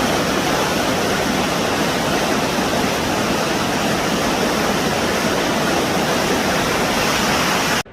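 Loud, steady rush of a waterfall's falling water, heard close, with no rhythm or tones in it; it starts and stops abruptly.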